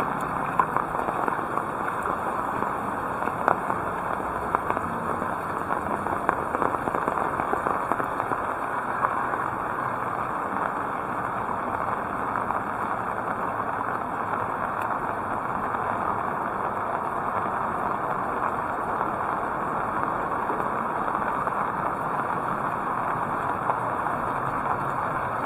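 Heavy rain falling steadily, a constant hiss with scattered sharp taps of drops striking nearby surfaces.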